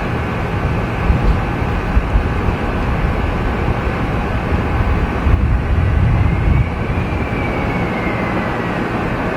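Jet airliner engines running, a steady loud rumble with a faint high whine.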